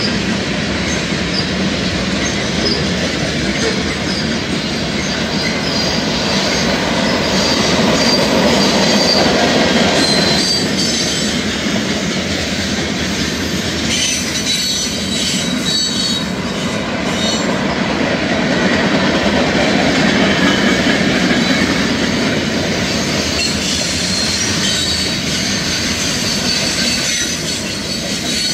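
Freight cars of a CSX mixed manifest train, tank cars and covered hoppers, rolling past at speed: a steady loud rumble of steel wheels on rail. High thin wheel squeal comes and goes, with a run of clicks from the wheels over the rail about halfway through.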